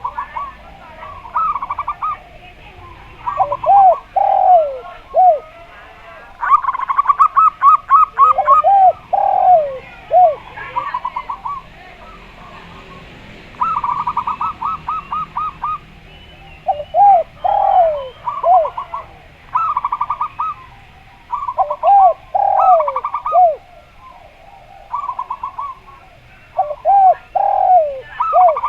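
A zebra dove and a spotted dove cooing back and forth. The zebra dove gives fast runs of short, high staccato notes. The spotted dove answers with lower, swinging phrases of two or three arched notes. A faint chatter of other small birds runs behind them.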